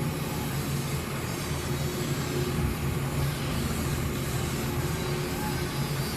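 A motor vehicle running steadily: a low engine hum under an even rushing noise.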